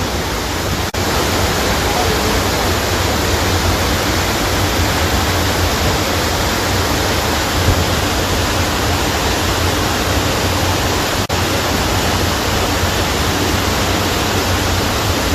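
Steady, loud rush of flowing river water, an even hiss and rumble with no pauses apart from two split-second dropouts, about a second in and about eleven seconds in.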